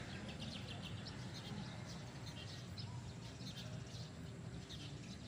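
Small birds chirping repeatedly, short high calls throughout, over a steady low rumble of outdoor background noise.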